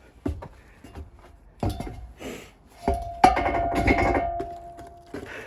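A tire on its wheel knocking and bumping down a ladder: a few dull knocks, then a loud metallic clang about three seconds in that rings on for nearly two seconds.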